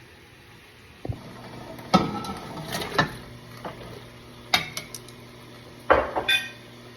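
Pots and metal utensils clanking and scraping in a handful of sharp knocks, the loudest near the start and about a second before the end, over a low steady hum that starts about a second in.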